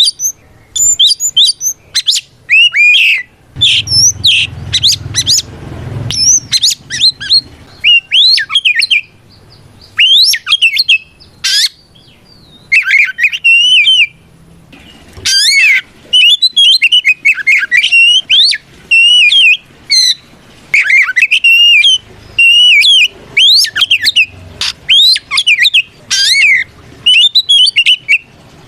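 Oriental magpie-robin singing loud, varied whistled phrases of quick up-and-down notes, one burst after another with short pauses. This is the full 'ngeplong' song of a male calling out a rival.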